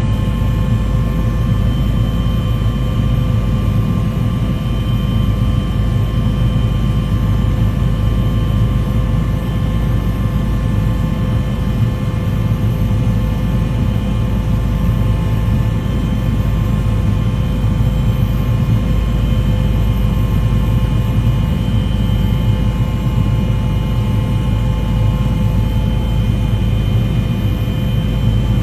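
Aircraft engine noise: a loud, steady drone with a low rumble and several held tones, unchanging throughout.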